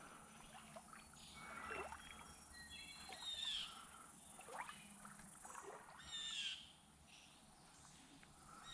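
Faint songbird calls: three short phrases of quick, high, sweeping notes a couple of seconds apart, over quiet outdoor background noise.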